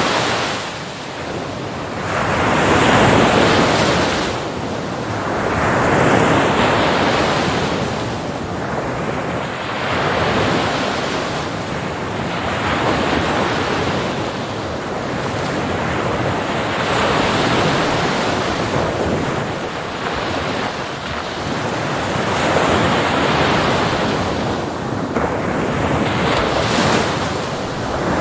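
Ocean surf: waves breaking and washing on a beach, swelling and ebbing every few seconds, with some wind.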